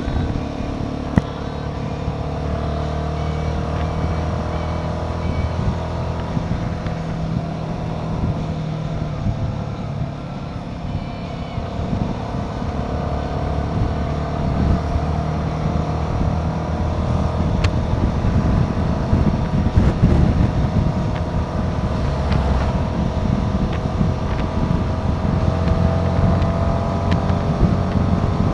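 Royal Enfield Himalayan 450's single-cylinder engine running steadily while riding, its note drifting slightly higher in the second half, under a constant low rush of wind and road noise.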